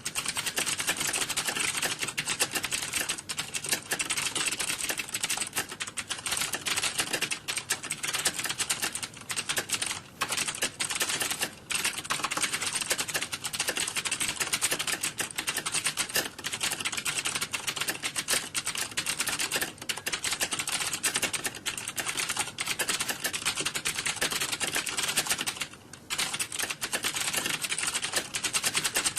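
Rapid typing on a computer keyboard: a dense, continuous clatter of keystrokes, with a few brief pauses.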